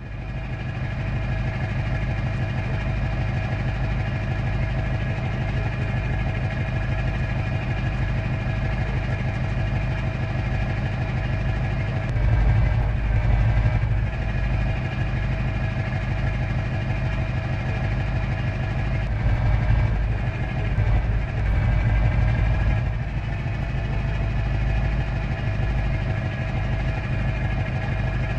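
Scania truck engine running steadily with a deep low rumble, swelling louder twice, about twelve seconds in and again about twenty seconds in.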